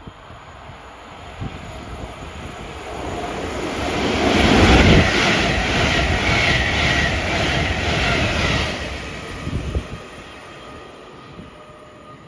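A train passing along the track: it grows louder, goes by with a rush and an even clatter of wheels about three times a second, then fades away.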